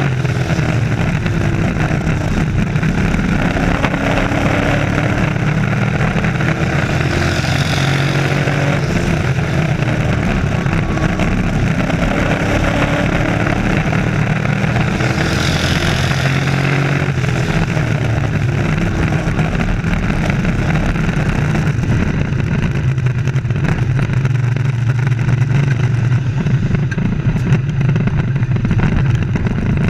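Race trucks running laps: a steady, loud engine drone whose pitch rises and falls as they accelerate and lift, with the pack sweeping past louder about 8 seconds in and again about 16 seconds in.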